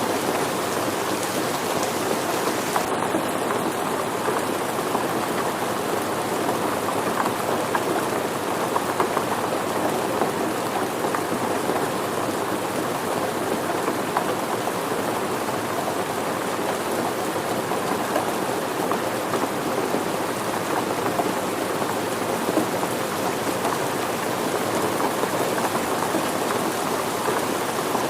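Steady rain falling, with a dense patter of raindrops striking surfaces.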